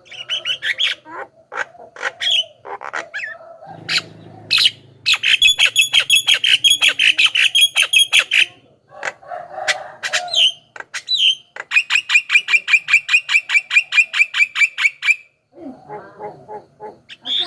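Javan myna calling: harsh squawks and clicking notes, broken by two long runs of fast, evenly repeated chattering notes, about six a second.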